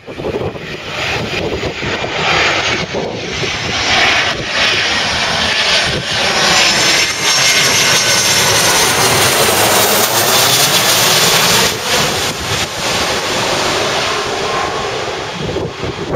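Airliner passing low overhead on its landing approach: the engine roar builds, is loudest in the middle with a high whine in it, then fades away.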